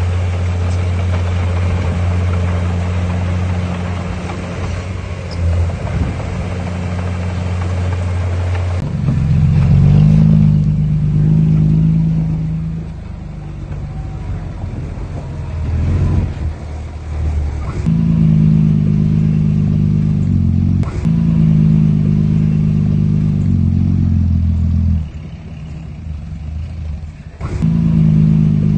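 Heavy diesel engine of earthmoving machinery running under load. A low steady drone for the first nine seconds, then a higher engine note that rises and falls, with a few short knocks.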